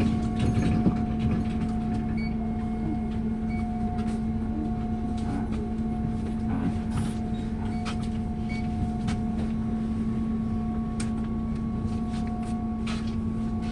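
MAZ-105 city bus heard from inside the passenger cabin, its engine running steadily with a constant hum and whine over a low rumble. Scattered light clicks and rattles come from the cabin fittings.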